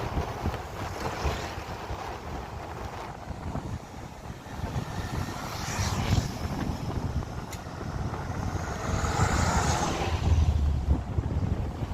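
Vehicle on the move, with wind buffeting the microphone in uneven gusts over a low road rumble.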